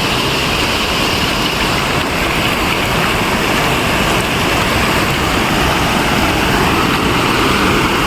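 Waterfall and stream water rushing close by: a loud, steady, unbroken noise.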